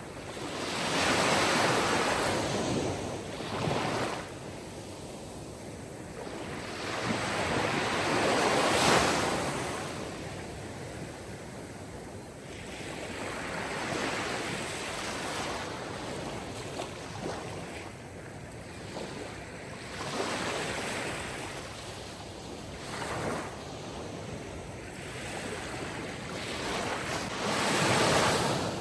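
Sea surf: waves washing in one after another, the sound swelling and fading every few seconds, with the biggest surges about a second in, around nine seconds in, and near the end.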